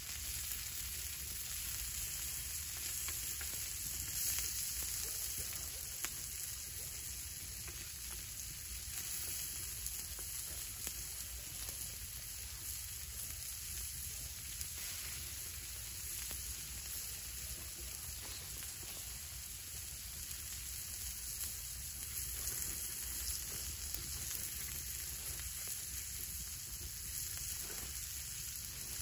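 Diced potato and onion sizzling steadily as they fry on a hot stone slab over a campfire, with a wooden spatula scraping and stirring them across the stone.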